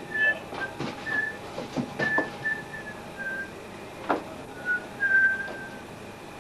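A person whistling a tune in short separate notes, with a few knocks and clicks in between.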